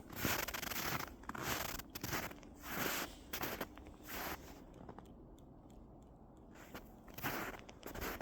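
Footsteps crunching in snow at an unhurried walking pace, stopping for about two seconds around the middle before starting again.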